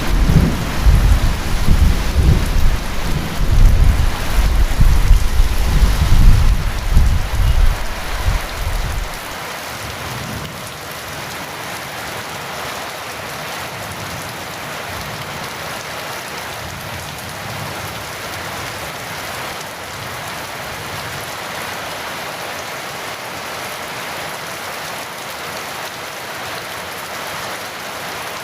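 Heavy rain falling steadily, with a long, loud low rumble of thunder over it that cuts off abruptly about nine seconds in, leaving only the even hiss of the rain.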